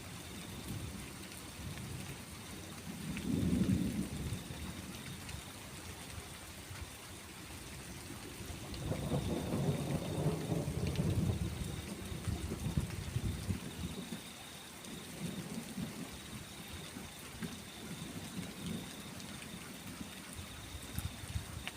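Rolling thunder over steady rain: a short rumble about three seconds in, then a longer, louder low rumble from about nine seconds that fades into weaker rolls.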